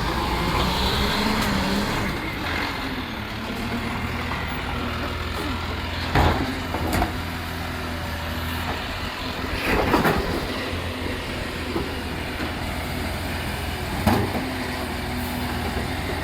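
Recycling truck's diesel engine running steadily, with four sharp clunks standing out about 6, 7, 10 and 14 seconds in.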